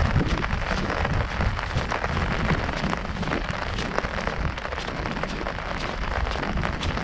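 Heavy rain falling on an umbrella held overhead: a dense, continuous run of small drop hits over a low, steady rumble.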